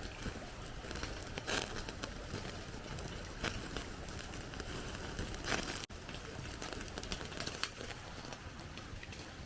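Rustling and crinkling with many scattered sharp clicks, a few louder crackly bursts, and a brief total dropout a little before six seconds in.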